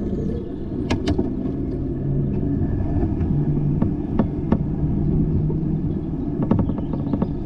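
Low rumble with a steady hum while riding a bicycle on the road, marked by a few sharp clicks. Near the end comes a short run of rapid, even ticks.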